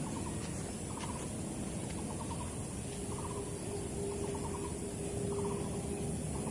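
Short rattling animal calls, each a quick burst of pulses, repeating about once a second over a steady low rumble. A steady hum joins about three seconds in.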